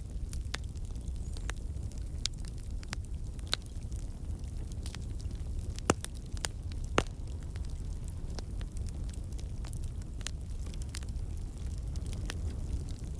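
Wood campfire burning with a steady low rumble and scattered sharp crackles and pops from the logs, two louder pops about halfway through. The crackling comes from water and sap in the wood turning to steam and escaping.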